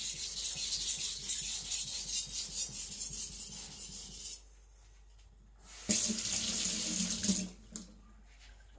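Steel knife blade ground on a wet coarse water stone in rapid back-and-forth strokes for about four seconds, thinning and lowering the bevel of a carbon-steel gyuto. After a short pause there is a brief rush of water, like a tap running, about six seconds in.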